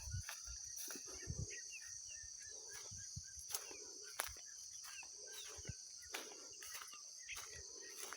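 Tropical forest ambience: a steady high-pitched insect drone with many short, quick bird chirps over it, and footsteps along the trail at a walking pace.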